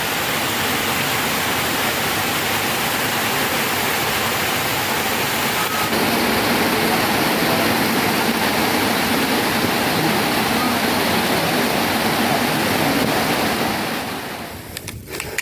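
Rain falling, a steady loud hiss that drops away sharply near the end.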